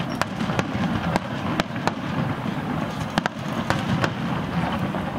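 Aerial firework shells bursting: an irregular string of sharp bangs and pops, roughly two a second, over a steady low background din.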